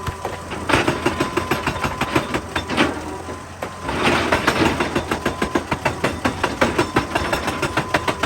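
Hydraulic rock breaker on an excavator hammering rock in a rapid, steady run of blows, about eight to ten a second, over the excavator's running engine. The blows ease briefly about three seconds in.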